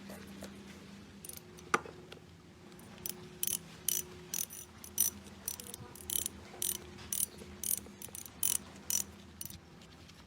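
Repeated short, high, hissing strokes, about two a second, over a steady low machine hum, with one sharp click about two seconds in.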